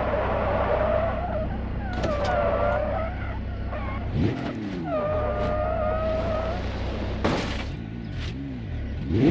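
A car's tyres squealing in long wavering tones over a steady engine drone, with the engine revving up about four seconds in and again near the end.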